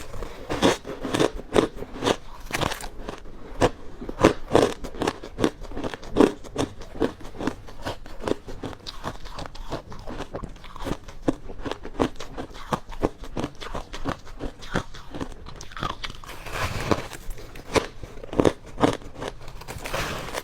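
Close-up crunching of ice being bitten and chewed: a fast, uneven run of sharp cracks and crackles, with a few heavier bites late on.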